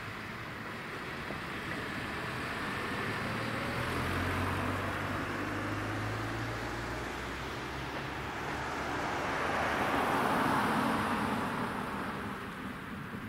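Road vehicles driving past, one after another: a first swell with a low engine hum about four seconds in, then a louder pass of tyre and engine noise near the end.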